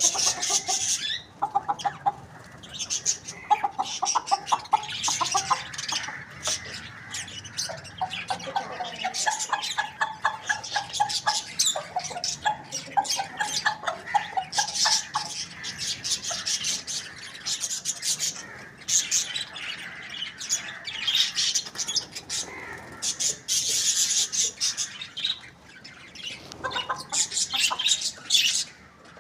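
Chickens clucking in quick pulsed runs, mostly in the first half, over a steady stream of high-pitched chirping.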